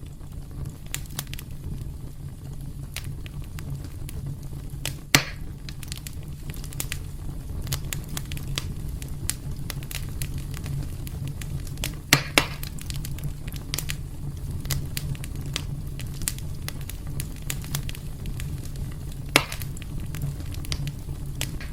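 Wood fire burning in a fireplace: a steady low rumble under constant fine crackling. There are louder sharp pops about five seconds in, a close pair around twelve seconds, and another near nineteen seconds.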